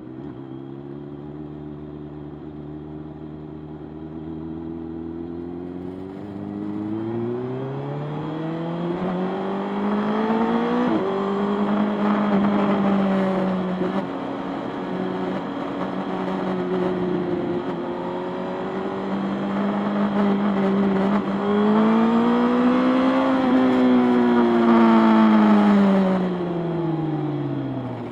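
Motorcycle engine running at a low steady pitch, then accelerating with the pitch climbing, a shift about a third of the way in, holding speed, rising again and then winding down as it slows near the end.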